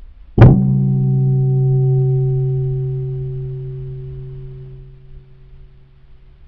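A single gong strike that rings out and fades slowly over about five seconds.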